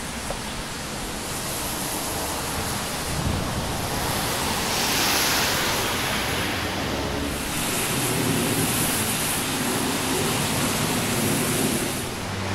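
Steady rain falling, an even hiss that swells slightly now and then.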